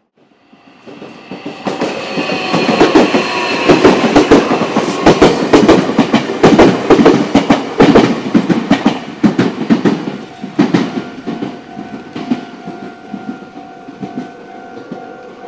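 Meitetsu electric commuter train passing close by, its wheels clattering rhythmically over the rail joints. It swells over the first few seconds and fades after about ten seconds. As it recedes, a level-crossing warning bell rings steadily.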